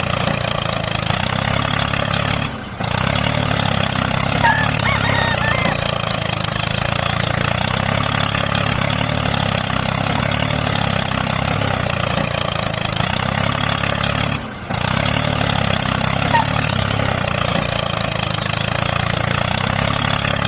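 Tractor engine running steadily while ploughing, with two brief dropouts about two and a half seconds and fourteen and a half seconds in.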